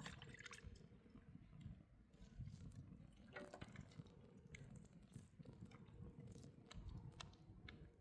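Near silence: a faint low rumble with a few small scattered clicks.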